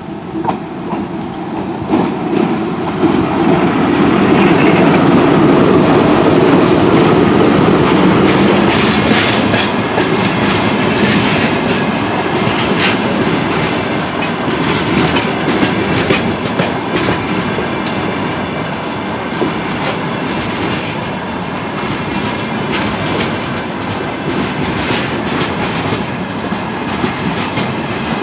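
VL11M electric freight locomotive passing close by with a loud rumble that is strongest a few seconds in. It is followed by a long string of open-top freight wagons rolling past with a steady clickety-clack of wheels over the rail joints.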